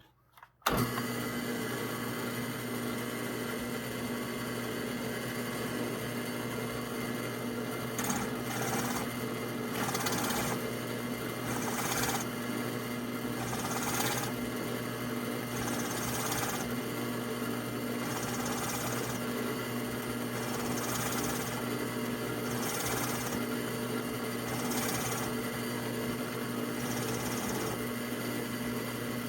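Drill press running steadily with a pen mill's carbide-insert cutter. From about eight seconds in comes a repeated, short, high-pitched cutting noise every second or two as the cutter is brought down in light passes to face the end of the wood pen blank flush with its brass tube.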